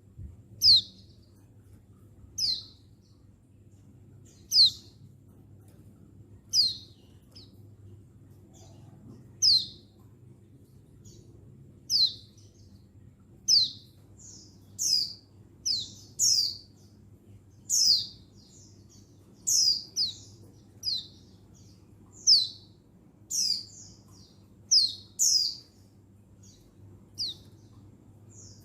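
Female white-eye (pleci buxtoni) calling to a male: short, sharp chirps, each falling quickly in pitch. They come one every couple of seconds at first, then more often, often two or three close together, from about halfway on.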